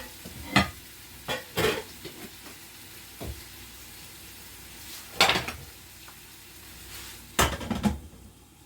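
A spoon knocking and scraping against a pot as pieces of cow foot are stirred, seven or so sharp knocks at uneven intervals, over a steady faint sizzle from the cooking pot.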